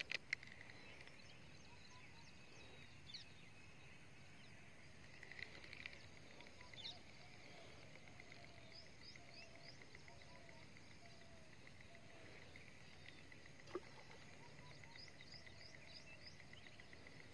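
Near silence outdoors: faint bird chirps in quick little runs, twice, and a few small isolated clicks.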